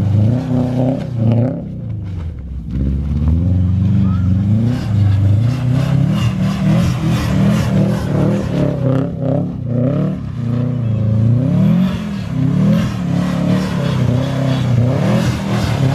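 Subaru WRX STI's turbocharged flat-four engine revving hard, its pitch rising and falling over and over as the car is driven through slides in the snow, easing off briefly about two seconds in and again about ten seconds in.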